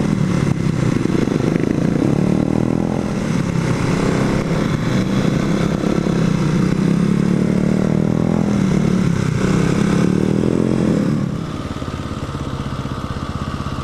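Motorcycle engine running under load while riding, its pitch rising and falling with the throttle. About eleven seconds in it eases off and gets quieter as the throttle is rolled back.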